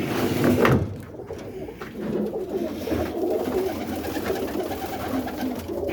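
Many domestic pigeons cooing together in their loft, a dense, continuous chorus of low calls. There is a brief louder noise in the first second.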